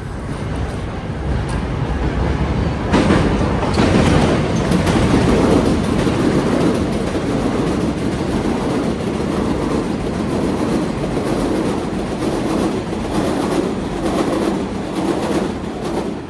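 Elevated subway train on the Flushing (7) line passing on the steel elevated track over Roosevelt Avenue. It swells about three seconds in, stays loud, and dies away at the end.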